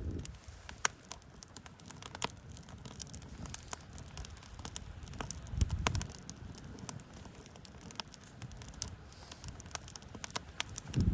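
Wood campfire crackling, with scattered sharp pops and ticks at an irregular pace and a soft low rush about halfway through.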